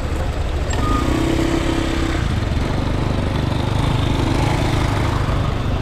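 Small motorcycle engine running steadily amid street traffic, its tone swelling twice.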